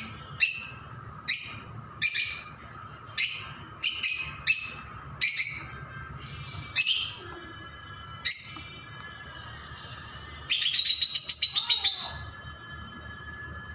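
Pet birds calling: a string of about ten loud, sharp chirps, each falling in pitch, then a rapid chattering run of calls lasting about a second and a half near the end.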